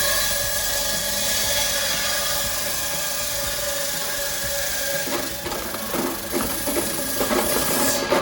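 Five-blade electric ice-block cutting machine running, a steady whine with loud hissing as the saw blades cut ice. From about five seconds in it turns to irregular rough scraping, and it stops abruptly at the end.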